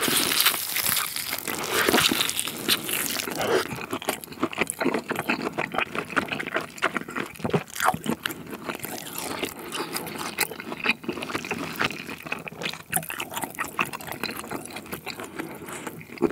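Close-miked chewing of a thick grilled tomahawk steak: a bite taken off the bone, then wet, juicy chewing with many small smacks and clicks, loudest at the start and easing off.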